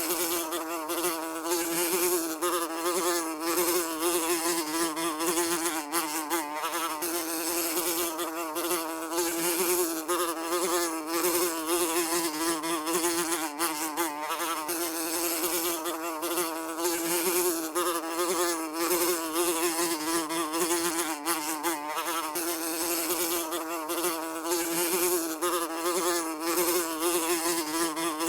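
Housefly buzzing continuously in flight, its wingbeat hum wavering slightly in pitch with a stack of overtones.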